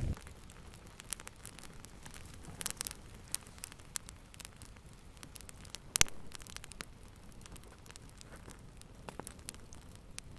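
Wood fire crackling: scattered sharp snaps and pops over a soft hiss, with a quick cluster of crackles about three seconds in and one loud pop about six seconds in.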